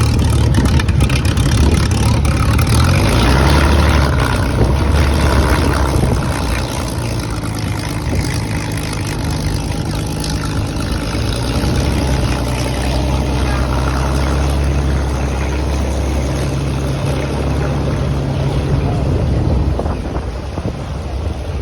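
Hawker Hurricane Mk. IV's Rolls-Royce Merlin V12 piston engine running, a loud steady drone that eases a little about six seconds in and dips briefly near the end.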